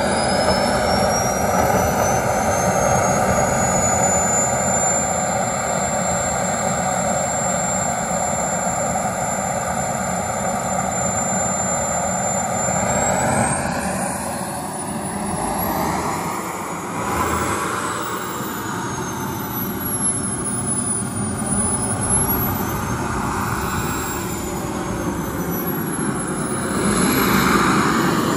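K-320 G5 model jet turbine running: a high whine over a rushing blast that climbs early on and then holds steady. About 13 seconds in it rises higher, then swings up and down several times as the throttle is worked.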